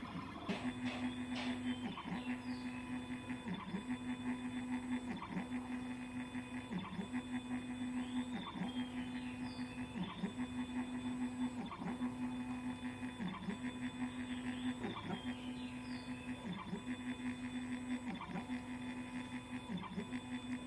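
Stepper motors of a CNC 1810 Pro mini machine driving its axes back and forth in a steady pattern. The whine dips briefly about every second and a half as the motion reverses.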